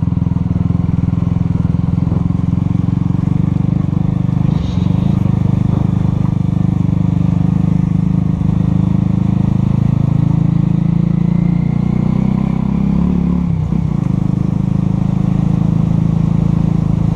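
Honda CB 300 motorcycle's single-cylinder four-stroke engine running steadily under way, with a brief dip about four and a half seconds in and a change in pitch around thirteen seconds.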